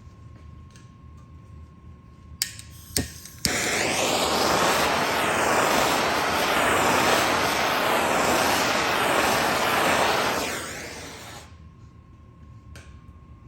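A few sharp clicks, then a loud steady rush of blowing air for about seven seconds that winds down near the end, like a blower or heat gun run briefly.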